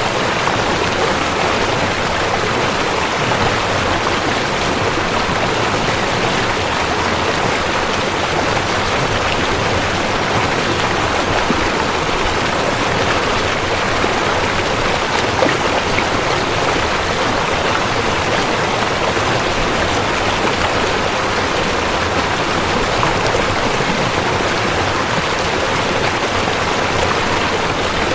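Rushing river water, a steady full rush with no breaks.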